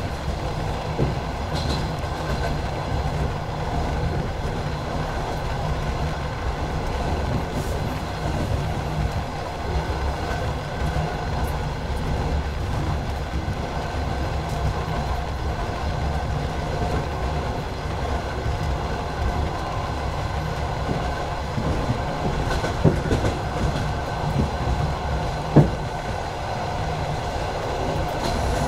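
Passenger train carriage running at speed, heard from its window: a steady rumble of wheels on the rails with occasional sharper knocks, the loudest one near the end.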